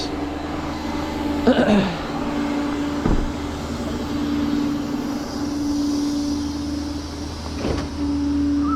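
Truck engine idling with a steady drone, with a few short knocks along the way.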